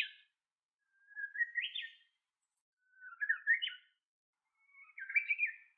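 A bird singing short phrases of quick chirps that step upward in pitch, one phrase about every two seconds: the tail of one at the start, then three more.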